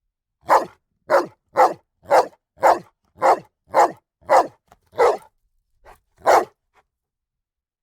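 A dog barking loudly over and over, about two barks a second, then a short gap with a faint bark before one last full bark near the end.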